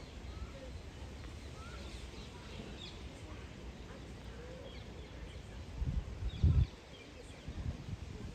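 Birds chirping in short, scattered calls over a steady low rumble of wind on the microphone, with a couple of low thuds about six seconds in.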